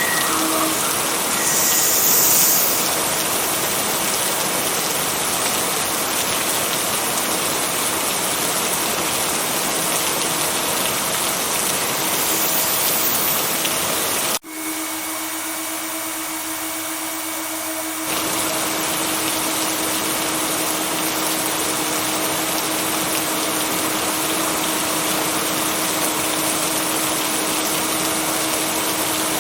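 Steady heavy rain with a faint steady hum beneath it. About halfway through the sound cuts suddenly to a thinner, quieter version for a few seconds, then the full rain returns.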